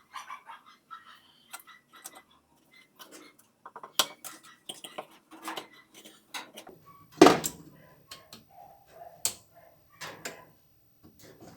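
Metal tools and parts clinking and knocking as they are handled during washing-machine repair work: scattered light clicks, with one louder knock about seven seconds in.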